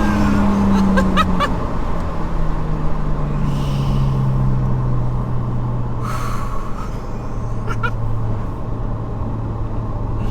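Nissan Skyline R34 GTT's turbocharged RB25 straight-six engine running under way, its revs falling slowly and steadily as the car comes off a pull, with a few brief sharp chirps over it.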